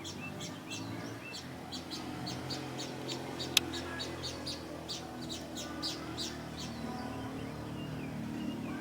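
Small songbirds chirping in quick repeated short calls, about three a second, over a steady low hum. A single sharp click sounds about a third of the way in.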